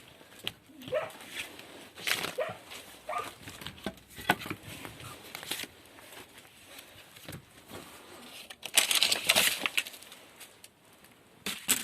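A dog whimpering in a few short, high whines, with a loud burst of scraping and rustling about nine seconds in.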